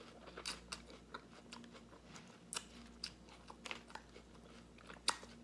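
Close-up chewing of crisp salad lettuce: irregular wet crunches and clicks, with a plastic fork picking at lettuce in a plastic bowl. The sharpest click comes about five seconds in.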